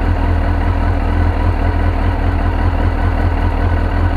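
2002 Suzuki GSX-R1000's inline-four engine idling steadily on its own, warming up after a cold first start following fresh maintenance: a cleaned-out tank and fuel pump, new NGK plugs and a new K&N air filter.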